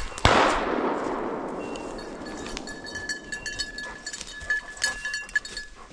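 A single shotgun shot about a quarter second in, its report rolling away and fading over the next two to three seconds. It is fired at a pheasant.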